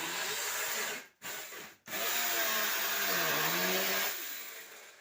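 Power drill running steadily as it bores through a ceiling, breaking off twice briefly and fading away near the end.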